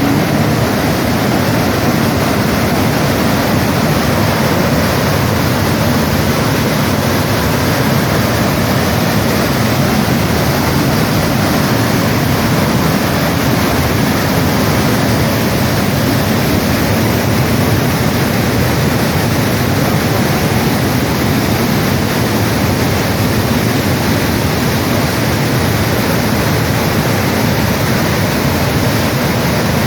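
Floodwater rushing in a swollen creek, a loud, steady, unbroken rush of water.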